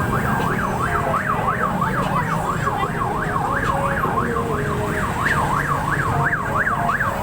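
Emergency vehicle siren in a fast yelp, its tone rising and falling about four times a second, over a low rumble of traffic.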